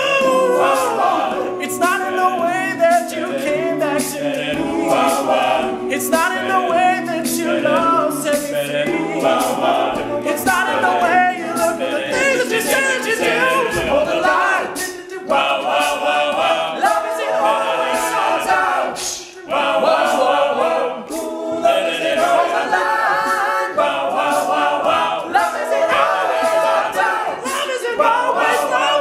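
An a cappella vocal group singing in close harmony, voices only with no instruments.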